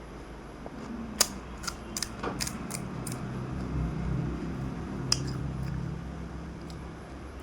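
Crisp crunching clicks of fuchka (panipuri) shells being bitten and chewed: a quick run of about six between one and three seconds in, and one more a little after five seconds.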